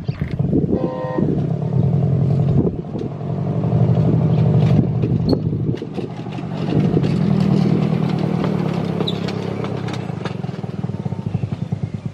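Small combustion engine of a miniature railway diesel locomotive running, its speed rising and easing several times with an even pulsing beat.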